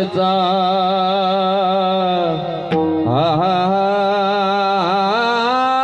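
Marathi devotional song: a long, ornamented sung melody that wavers and bends over a steady drone. It breaks briefly about halfway through, then glides back up.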